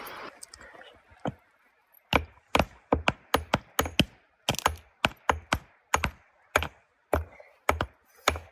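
A fast run of sharp knocks, about two to three a second, each a dull thud with a crack on top, like repeated blows of a blade or hammer on wood. One lone knock comes first, then the run starts about two seconds in.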